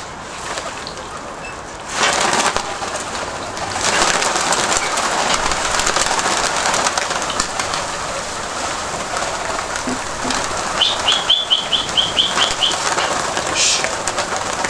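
A small bird's rapid run of about eight high chirps, about eleven seconds in, over a steady rushing noise.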